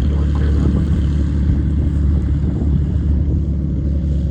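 Beechcraft Bonanza's piston engine and propeller running steadily at low power, a steady low rumble.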